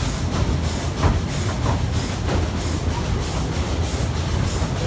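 Efteling's narrow-gauge steam train running, with a steady low rumble and a rhythmic hissing beat about three times a second.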